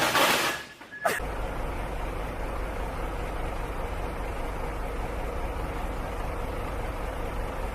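Steady low rumble and road noise of a moving car, as picked up by a dash cam. It follows a loud noisy burst that dies away in the first second, and a sharp click about a second in.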